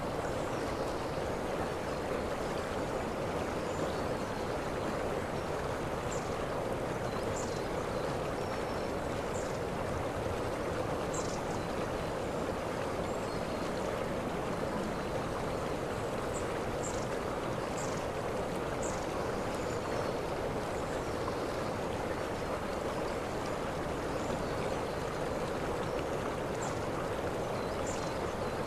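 Waterfall rushing steadily, a dense even water noise. Short high chirps sound faintly every few seconds above it.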